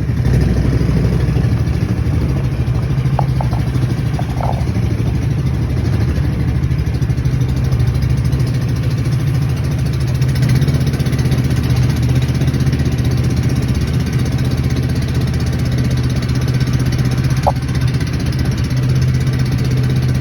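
An engine running at a steady low hum.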